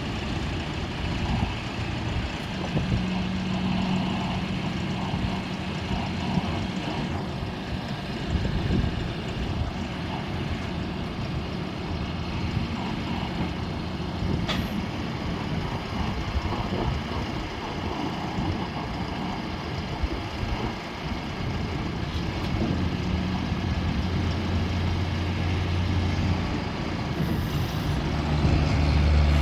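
Mahindra 7095 tractor's diesel engine running steadily, growing louder near the end.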